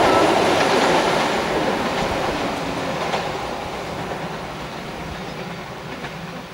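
Passenger train running away over a steel truss bridge, its wheels rumbling and clacking on the rails and fading steadily as the last carriages pass out of earshot.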